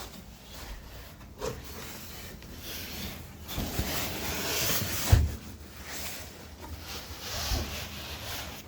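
Rubbing and rustling of a handheld camera being moved, with a few dull thumps like footsteps on a wooden floor; the loudest thump comes about five seconds in.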